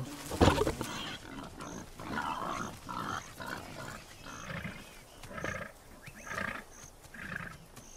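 Warthog grunting in a series of short grunts, about one a second. There is a sharper, louder thump about half a second in.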